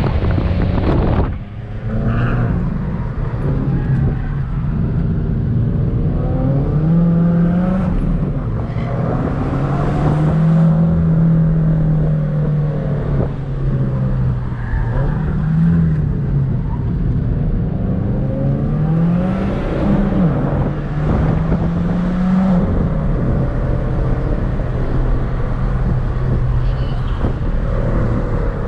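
Subaru WRX's turbocharged flat-four engine heard from inside the cabin while driving, its pitch rising and falling with throttle and gear changes over steady road and wind noise, with a brief drop in level about a second and a half in.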